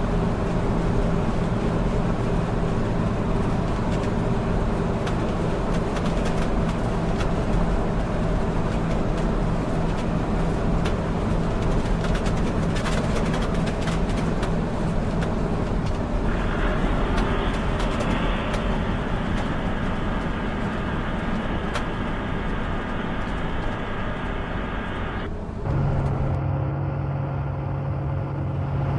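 Road traffic with heavy trucks: a steady engine drone with tyre noise. The sound changes abruptly about two-thirds of the way through.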